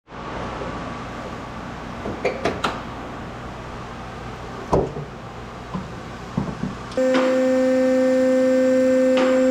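A few scattered knocks and clicks over a steady background noise. About seven seconds in, a loud steady machine hum switches on abruptly and holds at one pitch.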